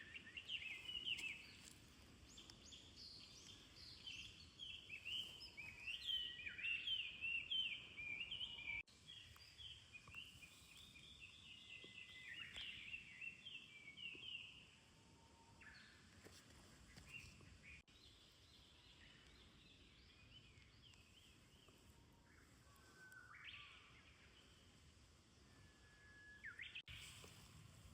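Several songbirds chirping and singing, heard faintly. The calls are dense and overlapping at first, then come sparser, with a few short whistled notes near the end.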